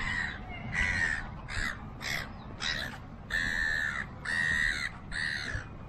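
Birds giving a series of about eight harsh, cawing calls. The first few are short, and the last three are longer and drawn out.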